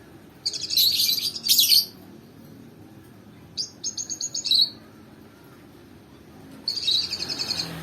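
Lovebird chirping in three bursts of rapid, high-pitched chatter, each about a second long.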